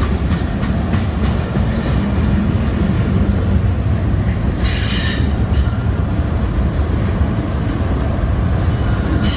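Freight train cars rolling past at speed, a steady loud rumble of steel wheels on the rails, with a brief high-pitched wheel squeal about five seconds in.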